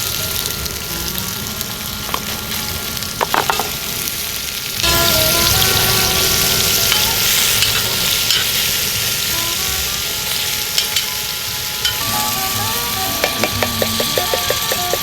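Food frying and sizzling in a hot pan, a steady hiss that gets louder about five seconds in. A few sharp clicks come about three seconds in, and a quick run of clicks comes near the end.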